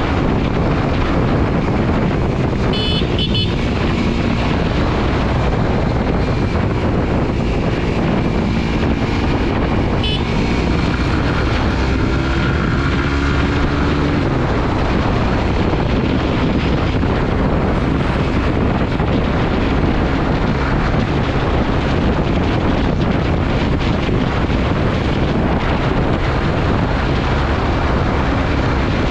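Suzuki GSX-R150's single-cylinder engine running under way with heavy wind noise on the microphone, its pitch rising and falling with the throttle. Two brief high beeps cut through.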